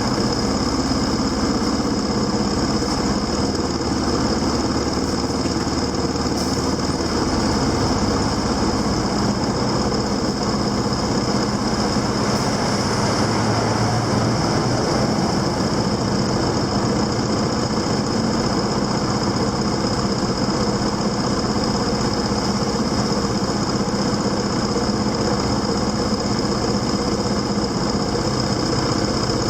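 Motorcycle engine running steadily at an even level, with a thick noise over it and a steady high whine.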